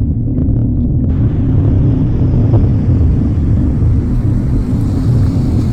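A loud, steady low rumbling hum of unknown origin heard from the sky, the kind of noise reported as the Hum phenomenon. A faint hiss joins it about a second in.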